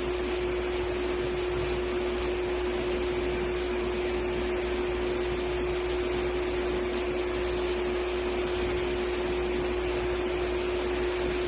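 Steady machine hum: one constant mid-pitched tone over an even hiss, unchanging throughout.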